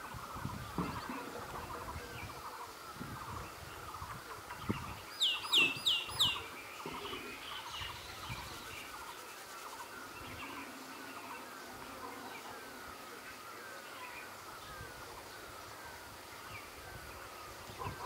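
Wild birdsong: a steady background twittering of many short chirps, with a burst of four loud, quick whistled notes, each sliding down in pitch, about five to six seconds in.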